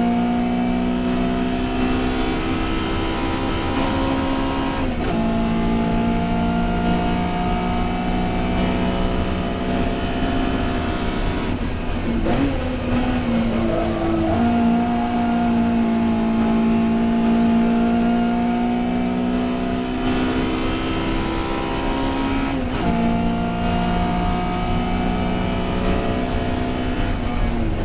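Historic touring race car engine running hard at high revs under racing load. The note breaks briefly for gear changes about five seconds in and about three-quarters of the way through. Around the middle the revs dip and climb again, as for a corner.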